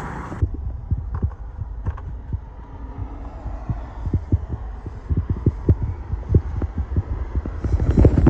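A big SUV's engine idling with the hood open, heard close up as a low throbbing hum with uneven low thumps through it. A louder rustle comes near the end.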